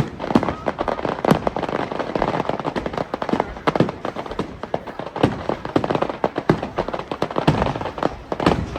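Aerial fireworks display going off: a dense, irregular run of bangs and crackles, several a second, with louder bangs among them.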